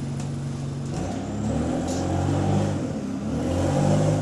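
Diesel engine of a bus with an exhaust leak idling steadily, then from about a second in pulling away, its pitch rising and falling twice as it accelerates through the gears, loudest near the end.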